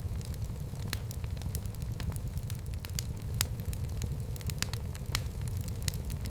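Fire burning in a fireplace: a steady low rumble with irregular sharp crackles and pops, several a second.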